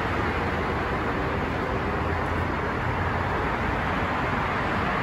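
AREX airport railway train running at the platform: a steady rushing rumble that holds an even level throughout.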